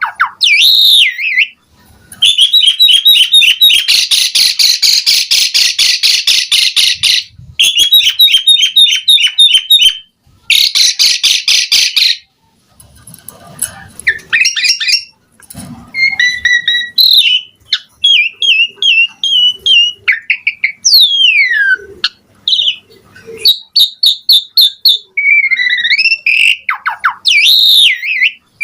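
Asian pied starling (jalak suren) singing a long, varied song. It opens with bursts of fast rattling trills, then moves to slurred whistles and sweeping up-and-down notes broken by short pauses.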